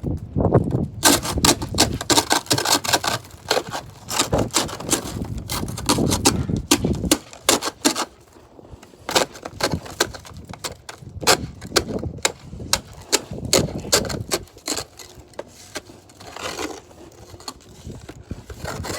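Ice glazed on by freezing rain crunching and cracking: a rapid, irregular run of sharp cracks and scrapes with dull thuds, thinning out after about seven seconds.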